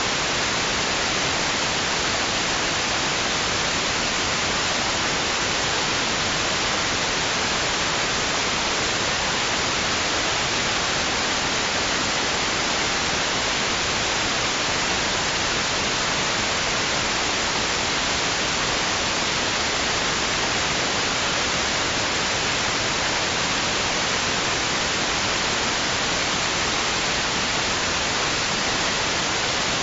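Steady white noise played as a baby sleep aid: an even, bright hiss that stays at one level throughout, with no rise and fall of waves.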